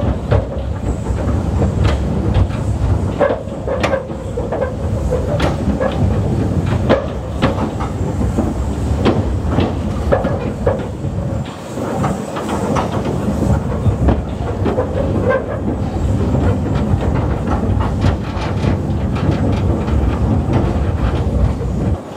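A narrow-gauge train rolling along the track, heard from on board: a steady rumble with irregular clacks and knocks from the wheels and rail joints.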